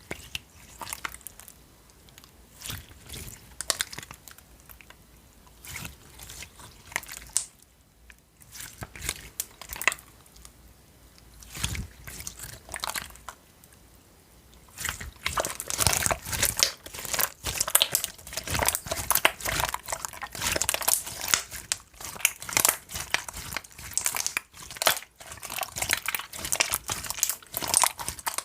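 Watery jiggle slime made from clear glue with a lot of water, squished and poked by hand: scattered wet squelches and small pops at first, then from about halfway on a faster, louder run of sticky crackling squishes.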